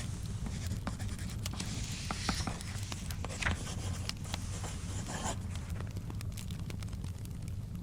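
Wood fire crackling in a fireplace: scattered sharp pops over a low steady rumble. A book's paper pages rustle as they are turned, about two and a half and five seconds in.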